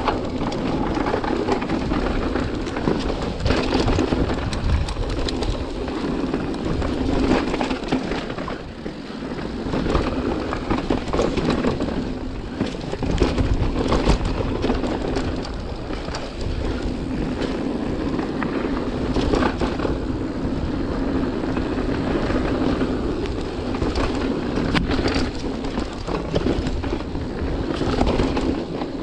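Mountain bike riding down a wet dirt trail: continuous tyre and drivetrain rattle with frequent short knocks from the bumps, a few louder around the middle and near the end.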